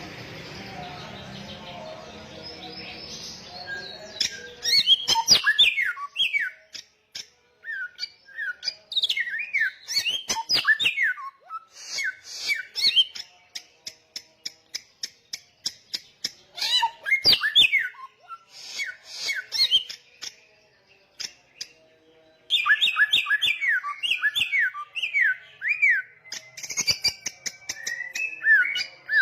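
A samyong songbird singing loudly in fast bouts of rising and falling whistled notes, chirps and sharp clicking calls, with a short pause around twenty seconds in. A steady hissing noise fills the first four seconds before the song starts.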